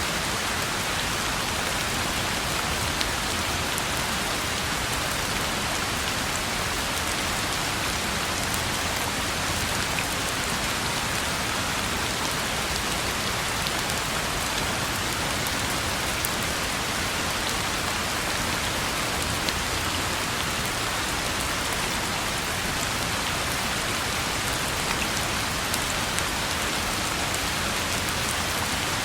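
Steady rain falling on a road, a constant even hiss with occasional sharper drop ticks.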